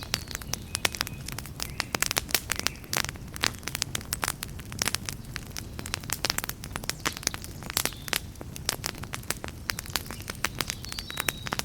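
Wood campfire crackling: a dense, irregular run of pops and snaps over a steady low rumble of the burning fire.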